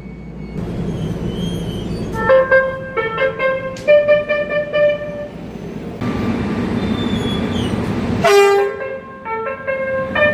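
Korean subway train's electronic horn sounding several short bursts of stepped, tune-like notes, over the rumble of the train running. A longer steady tone comes about four seconds in, and a quick run of notes near the end.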